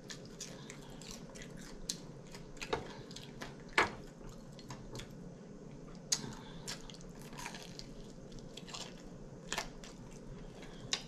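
Close-up chewing and mouth sounds of someone eating air-fried chicken wings: wet smacks and clicks at an irregular pace, with a few sharper crunches, the loudest about four seconds in.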